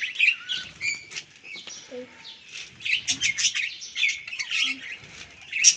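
Pet parrots chirping and squawking, a steady run of many short, high calls that overlap one another.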